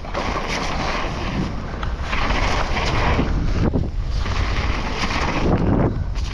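Wind buffeting the microphone of a camera on a mountain bike moving fast, over the steady rumble and rattle of the bike on a wet trail.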